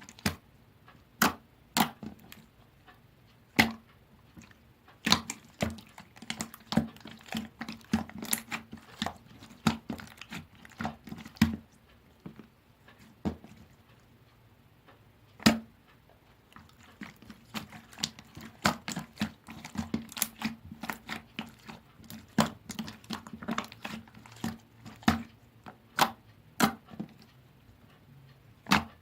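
Jiggly slime being squished and pressed by hand, making irregular sharp pops and clicks, with a sparser, quieter stretch about halfway through.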